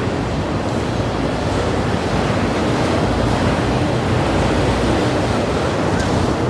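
Steady rushing roar of a freight train passing close by, its wheels running on the rails at an even level.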